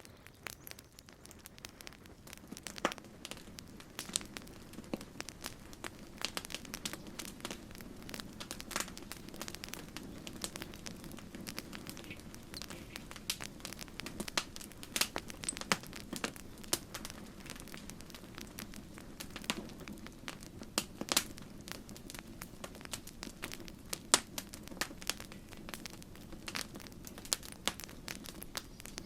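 Campfire crackling: wood burning with many irregular sharp pops and snaps over a low, steady rush of flame.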